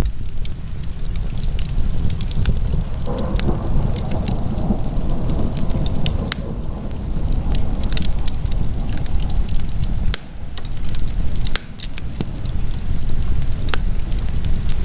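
Wood fire burning in a fireplace: irregular crackles and pops over a steady low rumble.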